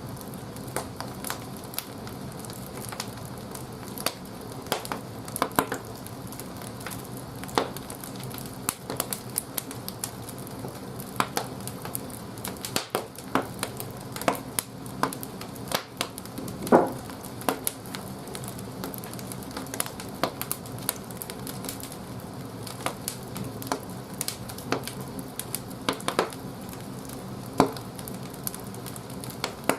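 Firewood burning in the firebox of an old wood-fired boiler: irregular crackles and pops over a steady low rumble, with one louder pop about halfway through.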